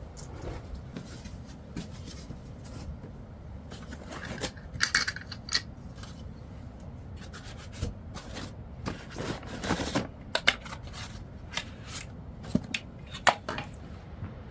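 Objects being handled: irregular rubbing and scraping with scattered sharp clicks, over a steady low rumble.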